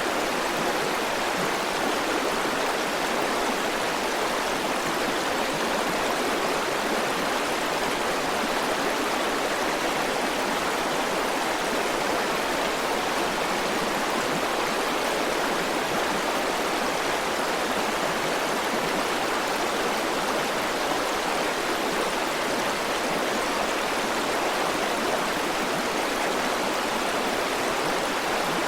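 A river's flowing water rushing and burbling steadily, without a break.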